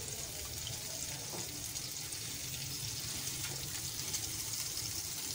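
Egg-and-milk-soaked bread slices frying in oil on a hot flat pan, a steady sizzling hiss.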